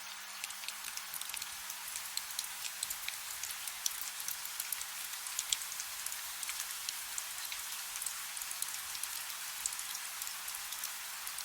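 Soft rain falling: a steady hiss with many small, sharp raindrop ticks scattered through it.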